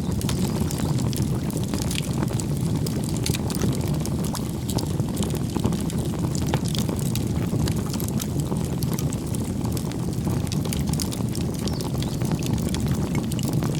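Wood campfire burning: a steady low rumble of the flames, with frequent sharp crackles and pops.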